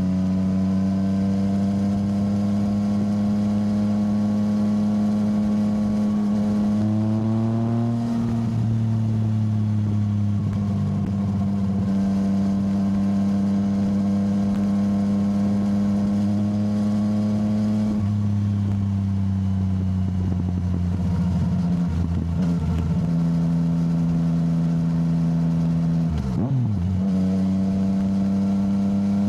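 Yamaha motorcycle engine running under way at fairly steady revs. The pitch climbs a little about a quarter of the way in, then eases off past the middle. It wavers for a few seconds and rises again at the very end.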